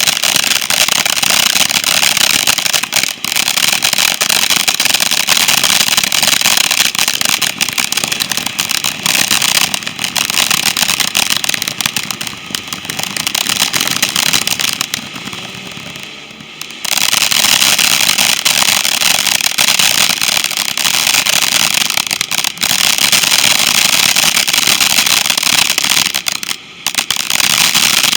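A firework crackling and hissing continuously, a dense spray of small pops. It dies down briefly about halfway through, then picks up again.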